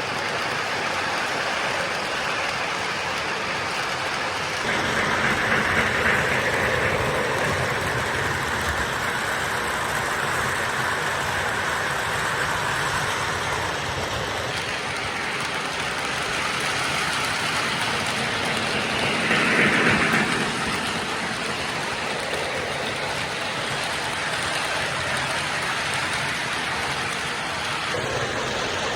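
O-gauge model freight trains running on the track: a steady rumble and clatter of wheels on rail. It swells louder about five seconds in and again briefly around twenty seconds, as if a train passes close by.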